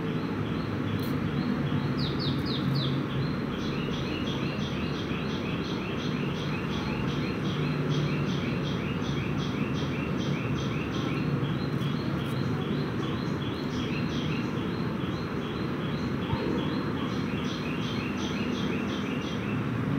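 Bird chirping in a fast, regular series of short high chirps, about three to four a second, over a steady low background rumble.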